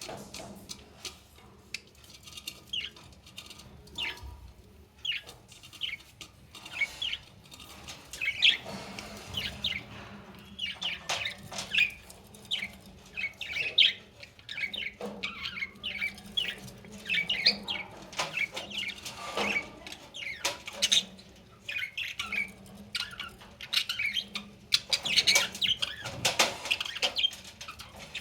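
Budgerigars in a cage chirping and chattering in quick, irregular short calls, busier at times, with some light clicks and wing flutters.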